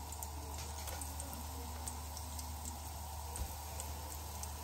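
Breaded chicken cutlets shallow-frying in hot oil in a frying pan: a gentle, steady sizzle with faint scattered crackles, over a steady low hum.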